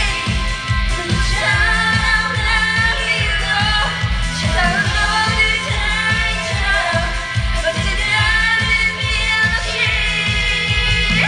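A woman singing a trot song over loud backing music with a steady, heavy bass beat.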